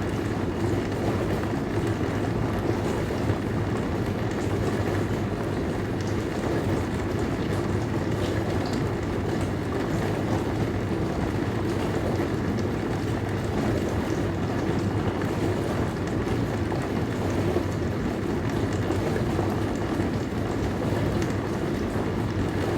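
Dishwasher running: a steady rush of spraying water over a low, even hum, unchanging throughout.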